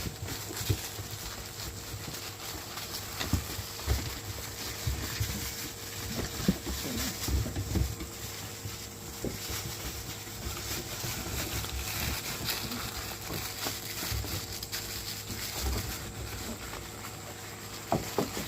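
German shepherd puppies scuffling at play, with irregular knocks, low bumps and the patter of paws throughout.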